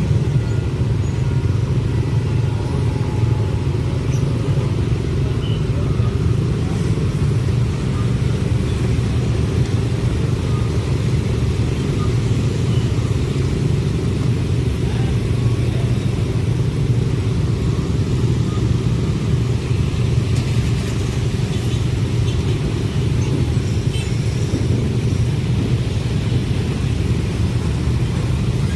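A long train passing, a steady low rumble of wheels on rails with no break.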